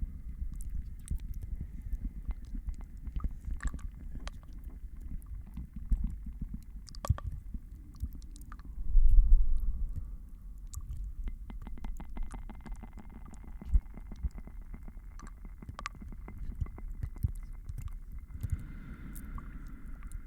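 Layered ASMR trigger sounds: a muffled low rumble with many small scattered clicks and crackles, swelling louder for about a second around the middle.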